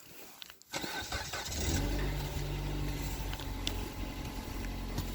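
Car engine starting about a second in and settling into a steady idle.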